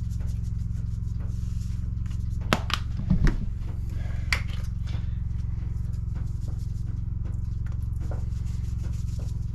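A steady low machine hum runs throughout, with a few sharp clicks and knocks between about two and a half and four and a half seconds in, the loudest about three seconds in.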